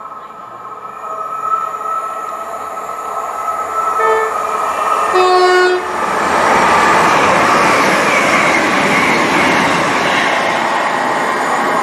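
Hitachi Intercity Express Train sounding its two-tone horn as it approaches, a brief higher note then a longer lower note, before rushing past at speed. The wheel and air noise of the passing train is loud and steady to the end.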